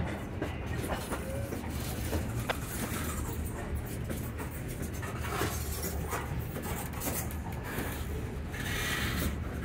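Freight train of covered hopper cars rolling past close by: a steady rumble of steel wheels on rail with scattered clicks and clanks from the trucks and couplers.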